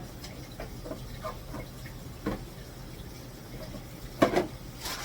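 Light clatter of household items being handled and set down, with a sharp knock about two seconds in and a louder double knock a little after four seconds.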